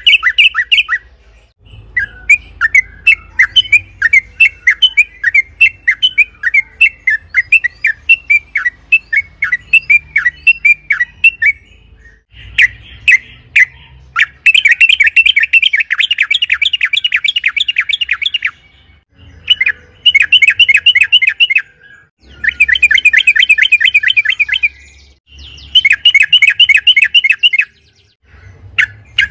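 Yellow-vented bulbul (trucukan) singing loudly. A run of separate, rapid chattering notes gives way, about halfway through, to several long fast trilled phrases of a few seconds each, with brief pauses between them.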